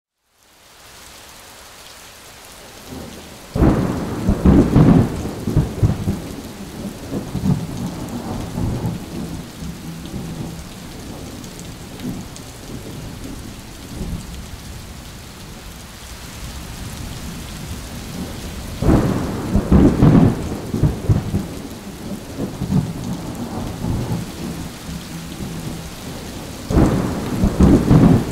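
Thunder during a lightning storm: three loud peals, about three seconds in, near the middle and near the end, each cracking in and rumbling off over a couple of seconds, over steady rain.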